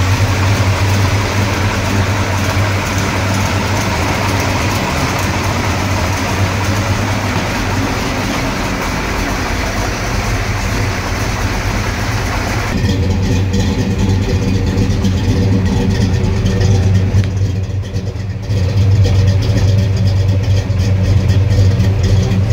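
Carbureted Chevrolet V8 of a 1969 Chevelle running steadily at idle with a deep, even rumble after being tuned. A little past halfway the sound turns duller, and near the end it gets slightly louder.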